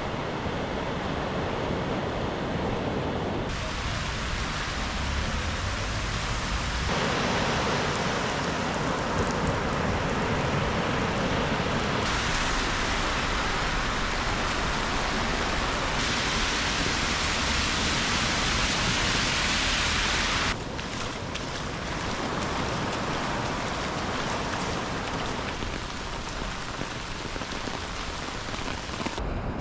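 Steady rain falling, an even hiss picked up by a GoPro's microphone. Its tone and loudness change abruptly several times, as at edit cuts.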